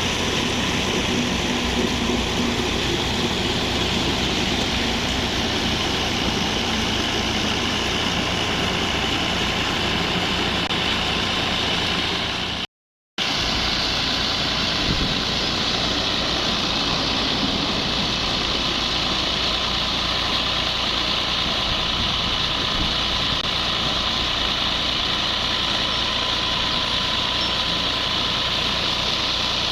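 Tractor engine running steadily under PTO load, driving a water-well drilling rig, with a continuous even drone and a brief cut to silence about halfway through.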